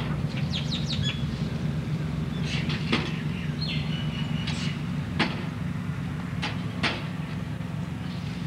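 Birds chirping and calling: quick chirps, several short sharp calls and one held whistled note lasting about a second, over a steady low hum.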